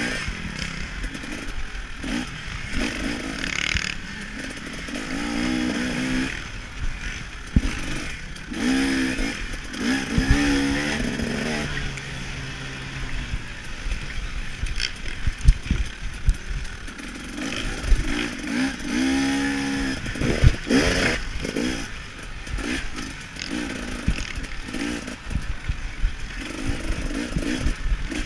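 KTM 300 XC-W two-stroke dirt bike engine being ridden hard, its pitch repeatedly rising and dropping as the throttle is opened and shut, with frequent short thumps and clatter over the rough track.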